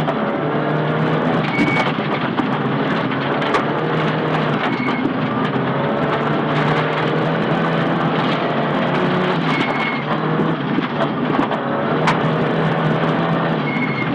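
Nissan Silvia S15 rally car's engine running hard at stage pace, its pitch rising and falling with throttle and gear changes, with scattered sharp knocks from the car.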